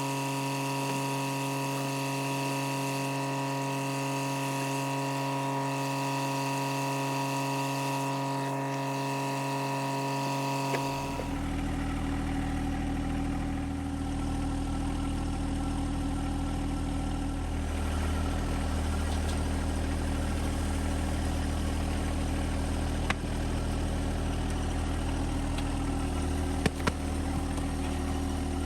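John Deere 1025R compact tractor's three-cylinder diesel engine running steadily. About eleven seconds in the sound switches abruptly to a deeper, rumblier engine note, and a few sharp knocks come near the end.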